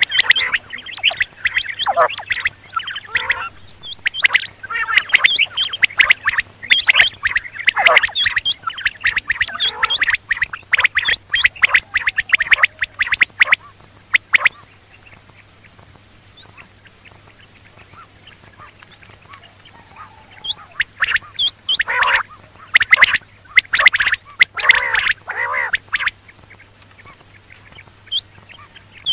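Quail calling in quick, chattering runs of notes for about fourteen seconds, falling quiet for about seven seconds, then calling again. A faint steady low hum runs underneath.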